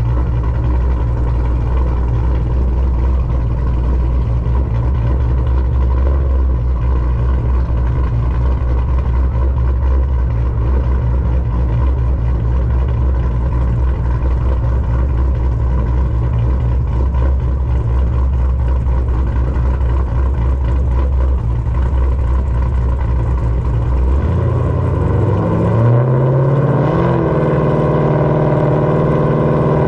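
Pontiac G8's engine, running on a freshly installed short block, idling steadily. About 24 seconds in it revs up and holds at a higher, steady speed.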